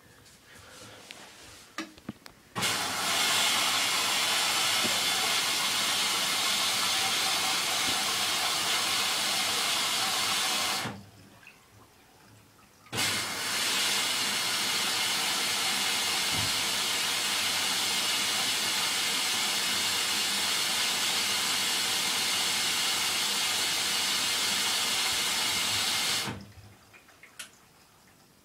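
Hoover washing machine filling with water through its inlet valve just after the wash programme starts: a steady rush of incoming water that begins about two and a half seconds in, stops for about two seconds around the middle, then runs again until near the end. A few light clicks come before and after the filling.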